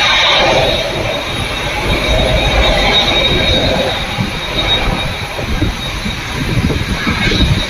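Jet engines of a Boeing 787-8 at idle as it taxis in: a steady high whine over a low rumble.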